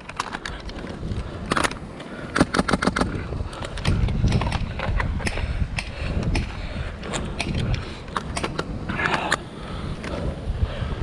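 Airsoft guns firing: a quick burst of about six shots about two seconds in, with scattered single shots through the rest, over steady wind buffeting the microphone.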